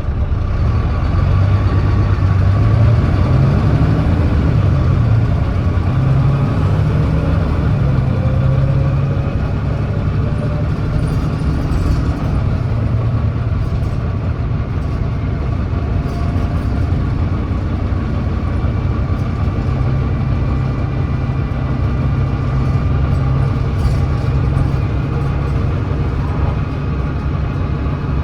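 Volvo D9B 9.3-litre diesel of a Volvo B9TL double-decker bus pulling away at full throttle (kickdown), its ZF Ecolife automatic changing up from first to third, with the engine note climbing and dropping back at each upshift before settling. The bus has an exhaust leak.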